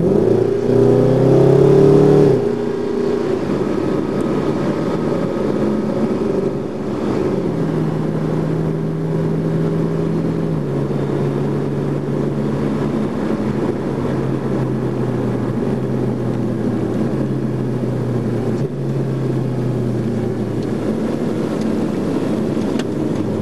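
Mercedes-AMG car engine heard from inside the cabin on a race track, revving hard for the first two seconds and then running on with its pitch shifting in steps as it gears up and down, over a steady hiss of tyre and wind noise.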